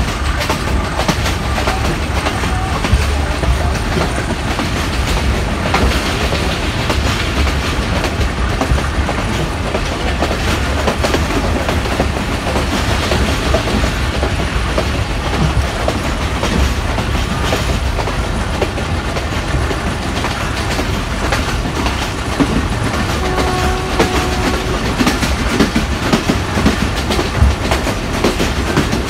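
Passenger train running at speed, heard from inside a coach: a steady rumble of wheels on the rails with clickety-clack over the rail joints.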